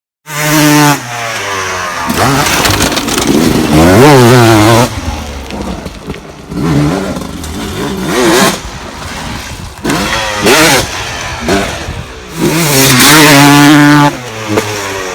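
Motorcycle engine revving hard and easing off over and over, its pitch climbing and dropping again and again as the throttle opens and closes.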